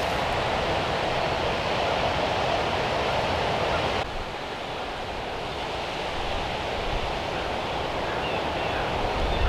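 Steady outdoor rushing noise, drops abruptly in level about four seconds in.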